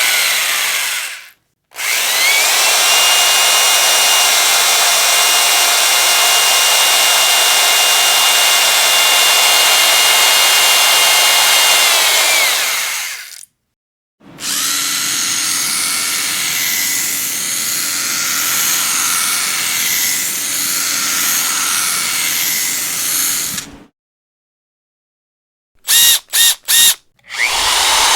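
Electric power drill running in repeated trigger-pulls. It stops briefly, spins up with a rising whine and runs steadily for about ten seconds before winding down. After a short pause it runs again for about nine seconds, then gives three quick blips before starting up once more near the end.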